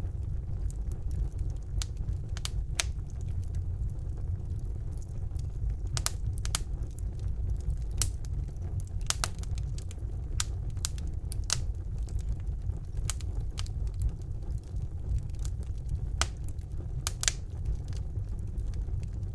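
Wood fire burning in a fireplace: a steady low rumble of the flames with sharp, irregular crackles and pops every second or so.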